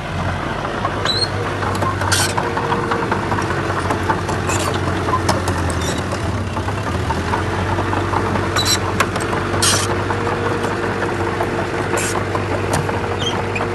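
Heavy diesel engine of earth-moving machinery running steadily, with a constant low drone and a few sharp clanks at scattered moments.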